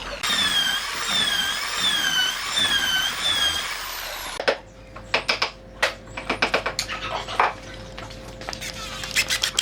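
A power tool whining at a high pitch that wavers up and down about twice a second, stopping about four and a half seconds in. After it stops comes a run of irregular sharp knocks and taps on wood.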